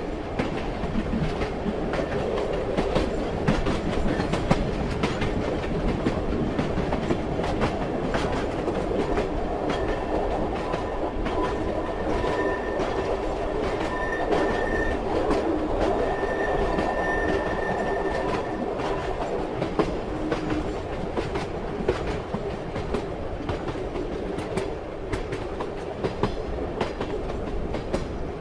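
Train running on the rails, a steady rumble with the wheels clicking over rail joints. A faint high wheel squeal comes in about a third of the way through and lasts some nine seconds.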